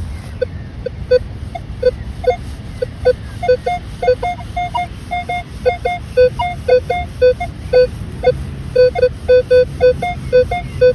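Minelab Equinox 900 metal detector giving short target beeps as the coil sweeps back and forth over a buried target. The beeps come at two pitches, one lower and one a little higher, several a second, over a low steady rumble.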